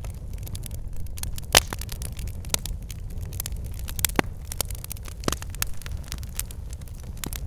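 Campfire burning: a steady low rumble of flames with irregular sharp crackles and pops of burning wood, one louder pop about a second and a half in.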